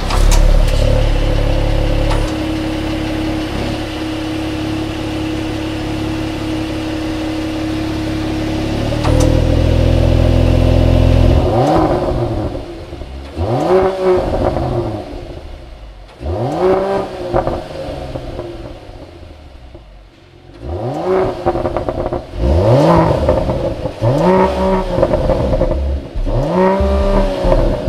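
Mercedes-AMG GLE 53's 3.0-litre inline-six engine and exhaust, idling steadily and then blipped repeatedly: from about twelve seconds in, quick throttle blips each rev up and fall back, a few at first, a brief lull, then several more in a row.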